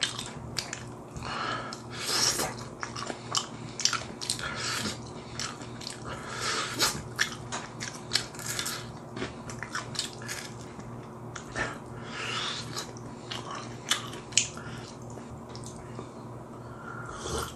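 Close-up chewing of crispy fried chicken: repeated biting, crunching of the fried coating and wet mouth sounds.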